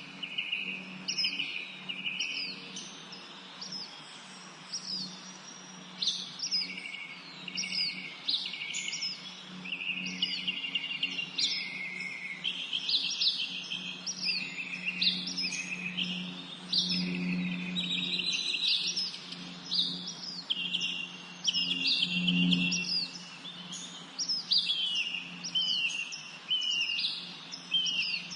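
Several songbirds singing together in a spring forest, overlapping repeated chirps and quick whistled phrases. A steady low hum runs underneath and swells briefly twice.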